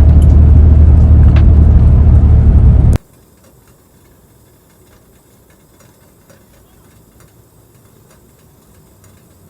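Steady, loud low rumble of a running vehicle engine that cuts off abruptly about three seconds in, leaving only a faint hiss.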